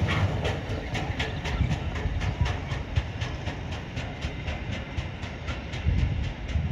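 Intermodal container wagons of a freight train rolling past, wheels clicking over rail joints at a steady rhythm of several clicks a second over a low rumble, gradually getting quieter.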